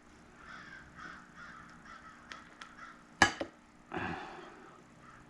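Crows cawing in the background, a run of faint repeated caws. About three seconds in comes a sharp double click from small metal carburetor parts being handled, then a brief rustle.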